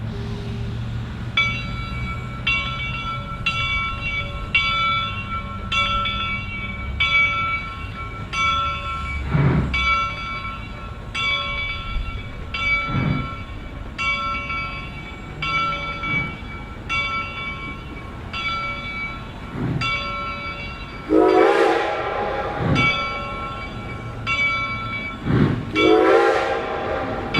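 Reading & Northern 425's locomotive bell ringing steadily, about one stroke a second. Slow exhaust chuffs come a few seconds apart, as the steam locomotive works at low speed. Two whistle blasts of about a second each sound near the end.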